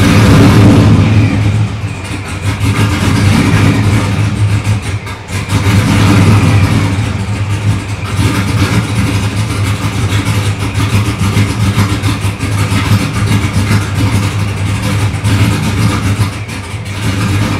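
Supercharged LS1 V8 with aftermarket heads and cam and a D1SC ProCharger, running after a cold start with a faint supercharger whine over the exhaust. The revs surge a few times, at the very start, again about three seconds in and again about six seconds in, then it settles back to a steady run.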